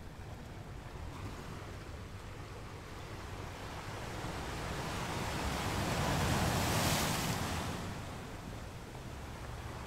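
Ocean surf: large waves breaking, a rushing noise that swells to a peak about six to seven seconds in and then eases off.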